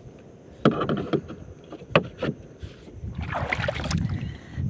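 A few sharp knocks and handling thumps on a small fishing boat, over a low rumble of wind and water.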